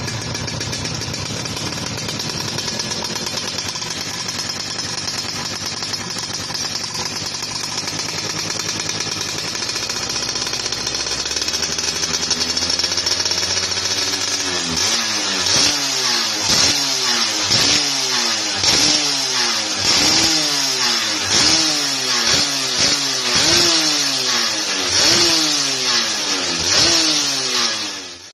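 Yamaha F1ZR 110 cc two-stroke single-cylinder engine through an aftermarket racing exhaust, running steadily at first. Halfway through it starts being revved in repeated quick throttle blips, about one a second, each rising and falling in pitch.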